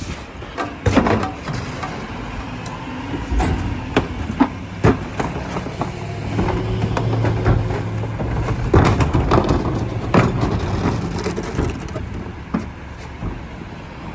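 Garbage truck compacting a load of trash: a series of sharp cracks, snaps and crunches as the refuse is crushed, over the truck's engine drone, which grows louder in the middle as the hydraulics work.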